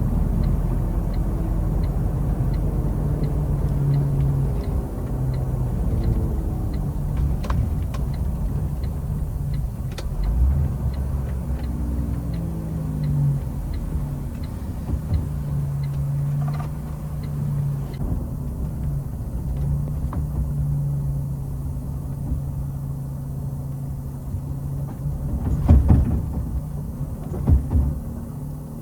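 CNG truck's engine running as the truck is driven, its pitch rising and falling a few times. A regular faint ticking runs through the first part, and two sharp knocks come near the end.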